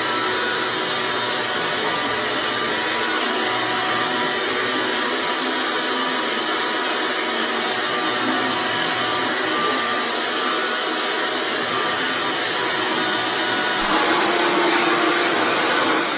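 Motorised drain-cleaning equipment running steadily, a loud even whir and hiss that grows a little louder near the end.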